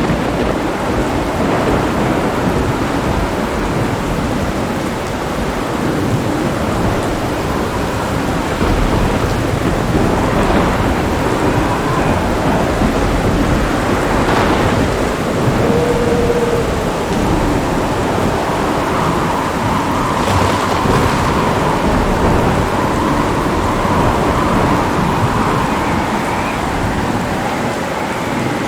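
Thunderstorm: steady heavy rain falling, with thunder rumbling low underneath it.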